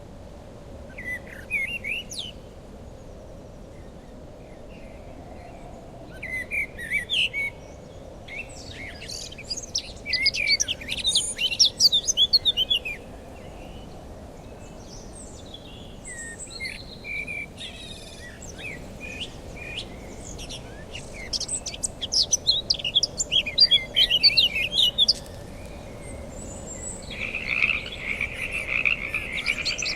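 Wild birds chirping and singing in several bursts of quick, high notes over a steady low background noise. Near the end a continuous, even trill joins in.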